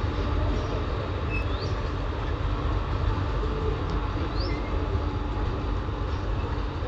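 Steady low rumble of a train standing at a station platform, with a faint steady hum and a couple of short, faint high chirps.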